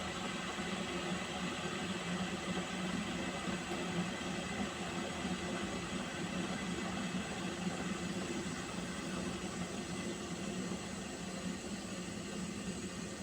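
Pot of water heating on a stove: a steady hiss with a low hum underneath, unchanging throughout.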